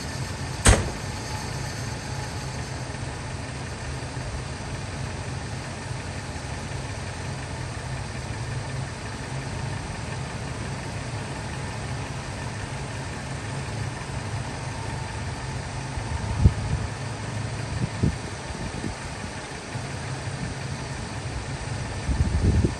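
2000 Ford F250's 5.4-litre V8 idling steadily and smoothly, its cold-start rough idle cleared after an IAC valve and throttle body cleaning. There is a sharp knock about a second in and a couple of duller thumps later on.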